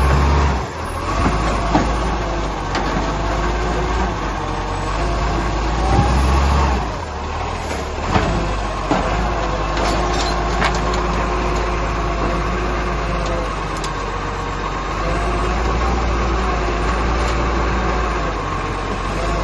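Garbage truck engine running, its pitch rising and falling, with a few sharp knocks.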